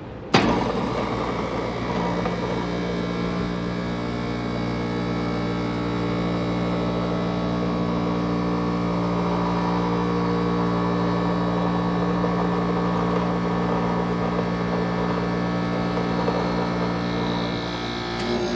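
A 5-ton York LX Series air conditioner starting up: a sudden clunk a split second in as the LG scroll compressor kicks on, then a steady electrical hum with a machine drone.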